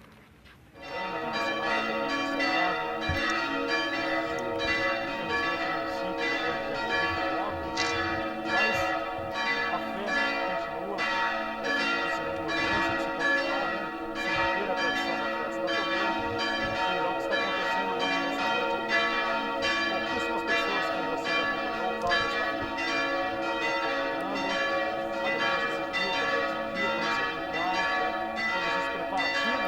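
Church bells pealing, struck in a rapid, continuous series that starts abruptly about a second in.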